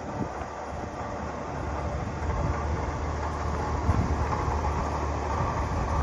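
1984 Ford F-150 pickup running, a steady low rumble that grows a little louder about two seconds in.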